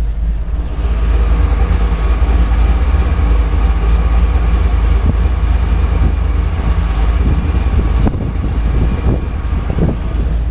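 Supercharged Chevrolet Camaro V8 running steadily, a deep rumble with a steady high whine on top, growing a little louder about a second in.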